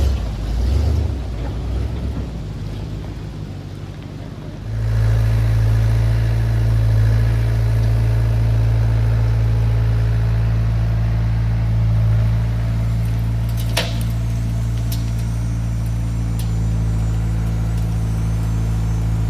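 Engine of a 1972 Chevrolet C50 dump truck running at a steady speed, with an uneven rumble for the first few seconds that settles into a loud, even drone about five seconds in. A single sharp click comes about fourteen seconds in.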